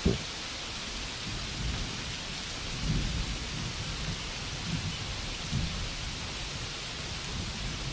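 Steady rainfall, with a few soft low rumbles of thunder rising and falling under it.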